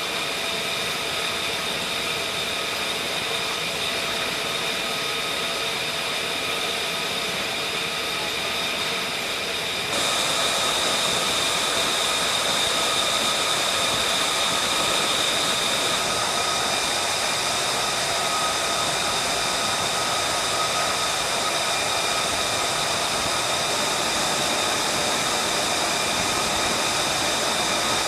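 Jet engine running steadily on an aircraft carrier flight deck: a continuous rushing noise with a high, steady whine. The sound gets abruptly a little louder and brighter about ten seconds in.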